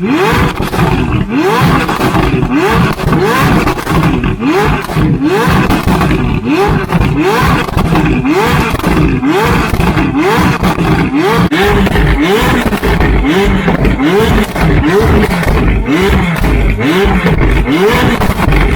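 McLaren 570S twin-turbo V8 with a catless, straight-through Tneer exhaust, revved hard over and over: its pitch rises and falls back about once a second.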